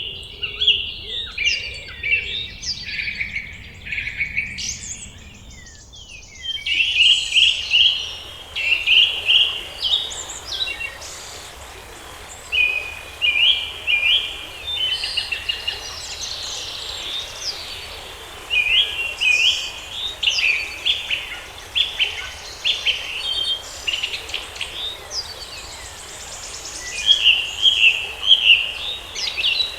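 Several songbirds chirping and singing in quick, repeated phrases, with a brief lull about five seconds in, over a faint steady background hiss.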